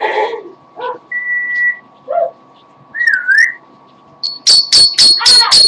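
A pet parrot whistling and chattering: a short talk-like burst, a steady whistled note, a warbling whistle, then near the end a fast run of loud, sharp, high beeping calls, about four a second.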